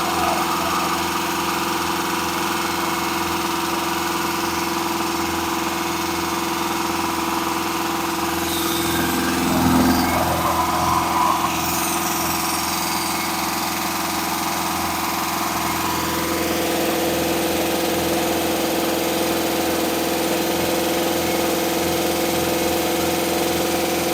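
Engine running steadily during the break-in run of its new camshaft. About nine to eleven seconds in there is a brief louder disturbance over it, and a few seconds later the engine's note shifts slightly.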